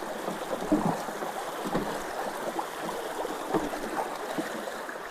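Creek water rushing steadily through a culvert that has just been cleared of a leaf and debris blockage, with small splashes and gurgles.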